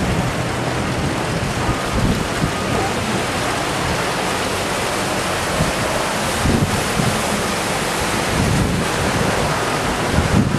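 Steady rushing hiss of heavy rain and floodwater, with wind buffeting the microphone in low rumbles.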